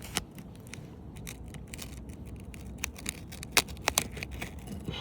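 Metal roof-snake tool scraping and clicking under asphalt shingles as it works the seal loose, with scattered sharp ticks and a few louder ones about three and a half to four seconds in.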